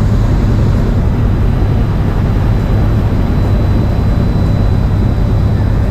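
River cruise boat under way: its engine runs with a steady low drone, and a constant rushing noise lies over it.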